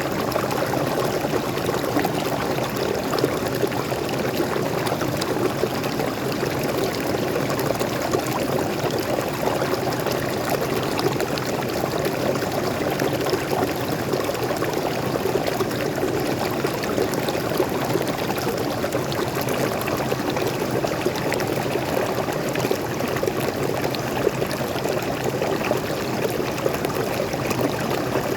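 Steady rush of water from a small forest waterfall and stream, falling and splashing continuously without a break.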